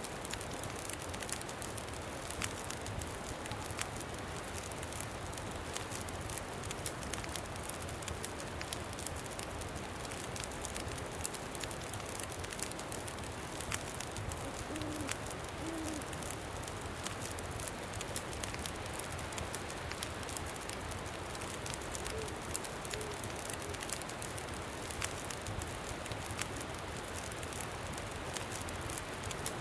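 Campfire crackling steadily in the wind, with many sharp pops. A few soft, low hoots are heard about halfway through and again a little later.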